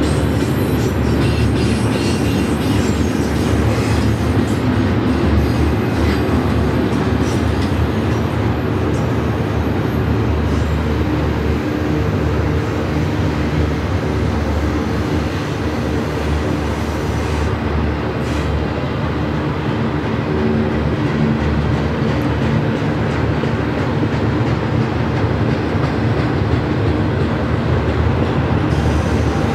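Double-stack intermodal freight train's loaded well cars rolling past at steady speed: a continuous loud rumble of steel wheels on rail, with some added high hiss in the first couple of seconds.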